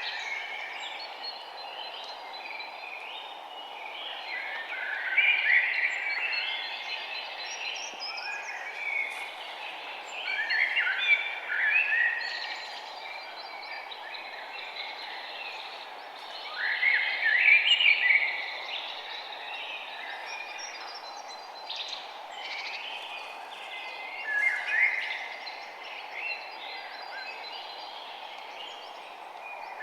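Birds singing outdoors, with a louder song phrase every five to seven seconds over a steady background hiss.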